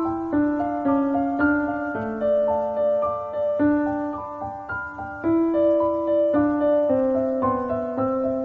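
Background piano music: a gentle melody of notes played one after another, about two a second.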